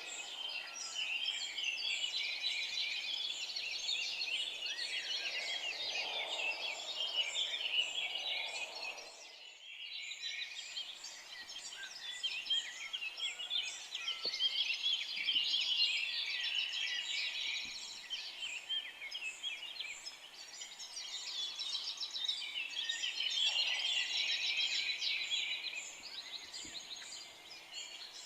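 A dense chorus of many forest songbirds chirping and trilling over one another without a break, with a brief lull about nine seconds in.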